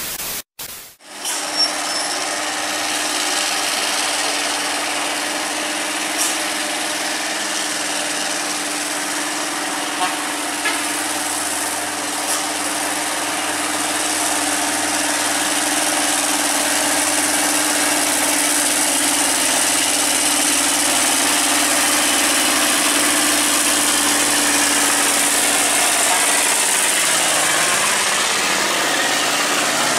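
An engine running steadily at a constant speed, with a few faint clicks and knocks over it.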